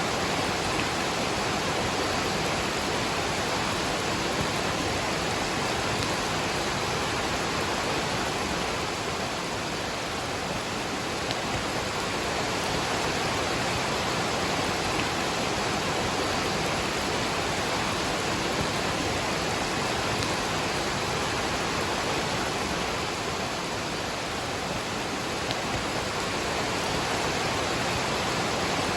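Waterfall rushing steadily, mixed with falling rain: an even, unbroken wash of water noise.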